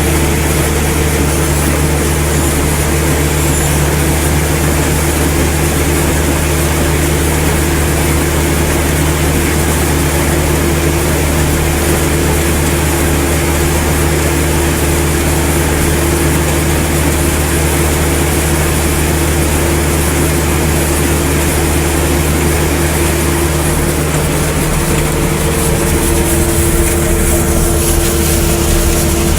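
Tractor engine running steadily while the tractor harvests tobacco plants, with its tone changing slightly near the end.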